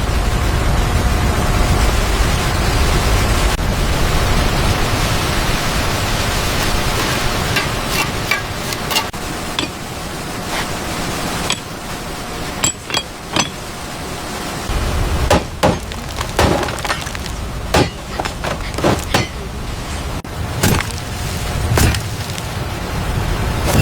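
A steady rushing noise for the first half, then a series of sharp clinks and knocks, irregular and more frequent in the second half.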